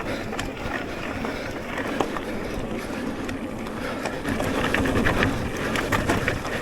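Electric mountain bike being ridden along a dirt trail: steady tyre and wind noise, with scattered short knocks and rattles over bumps.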